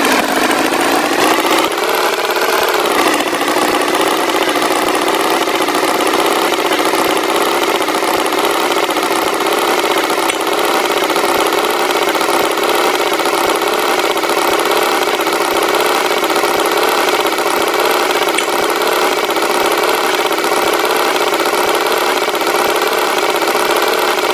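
Tractor engine running steadily. Its pitch rises briefly about two seconds in, then settles back to an even drone.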